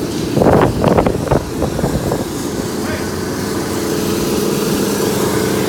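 An engine running steadily at an even speed, with brief voices near the start.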